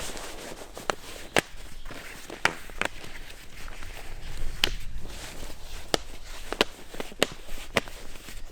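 Footsteps on a dry forest floor, with irregular sharp snaps, as of twigs breaking underfoot, about once every half second to second.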